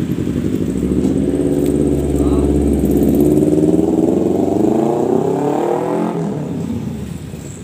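A motor vehicle's engine running close by, its pitch rising as it speeds up, then fading away near the end as it passes.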